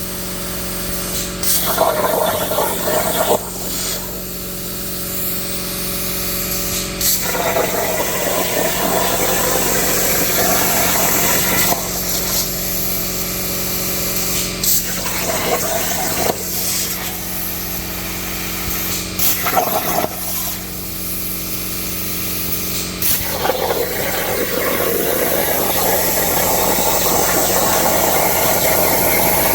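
CNC plasma table cutting a steel saw blade: the plasma arc hisses steadily over a constant machine hum. The hiss swells and fades in stretches, and a sharp click comes every few seconds.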